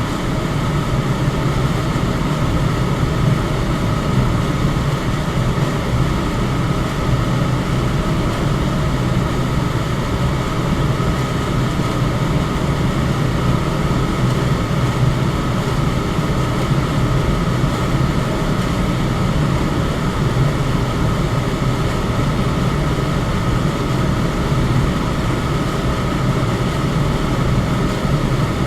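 Electric fan running steadily: an even rush of air over a low hum, unchanging throughout.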